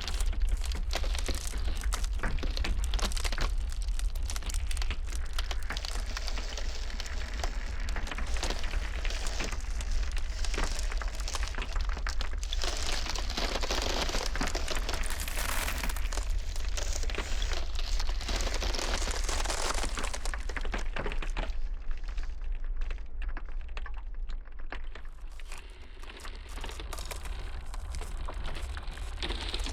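Ice cracking: many irregular sharp cracks and crackles over a steady low rumble of blizzard wind. The cracking thins out and the sound drops a little about two-thirds of the way through.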